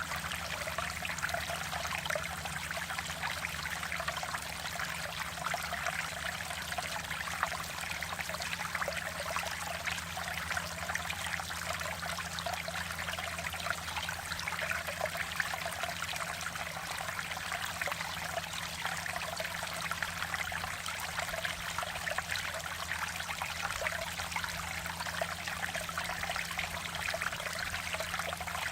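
Mountain valley stream flowing and babbling steadily over rocks, an even rush with fine splashing and gurgling detail.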